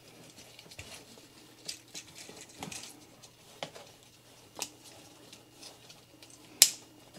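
Hard plastic action figure and blaster being handled: scattered light clicks and taps of plastic parts, with one sharper click near the end.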